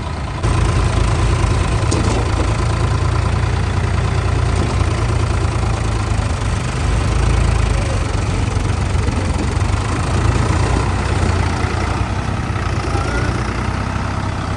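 Tractor diesel engine running steadily with a strong low rumble. It gets louder about half a second in and swells briefly around the middle.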